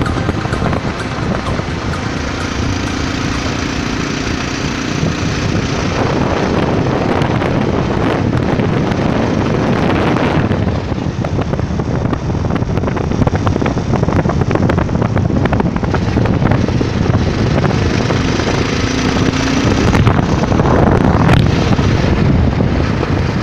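Bajaj Pulsar 220 motorcycle on the move, its single-cylinder engine running under heavy wind noise on the microphone.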